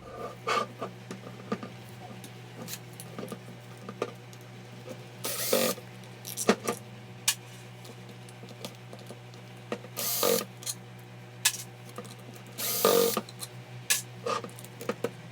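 Hand tools and small metal parts clicking and clattering during repair work on an electric chainsaw. There are three louder short hissing or rasping bursts, about five, ten and thirteen seconds in, over a steady low hum.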